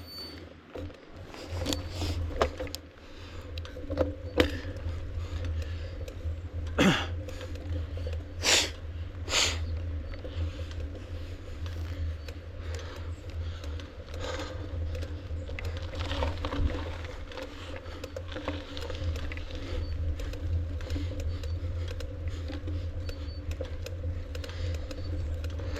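Mountain bike being ridden on a climb: a steady low rumble of wind on the microphone, with scattered clicks and rattles from the bike, a cluster of louder ones about seven to nine seconds in.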